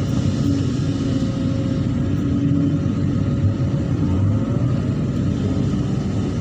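Excavator's diesel engine running steadily with a low rumble, with a faint hydraulic-like whine held above it.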